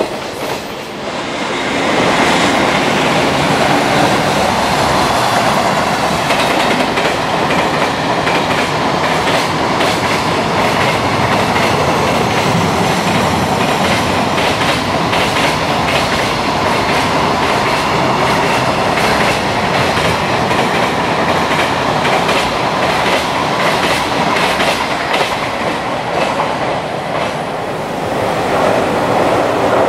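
Long container freight train passing at speed, its wheels rumbling with a rapid clickety-clack over the rail joints. The noise eases briefly near the end as the last wagons go by, then builds again.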